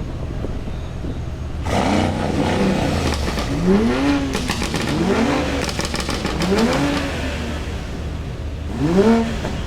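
Car engine revved in repeated short blips, each rising in pitch and dropping back, about five times starting a couple of seconds in. A rapid run of sharp clicks comes between the blips near the middle.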